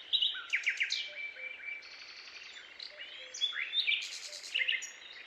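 Several birds chirping and whistling at once: a busy chorus of short calls and quick rising notes over a faint steady background.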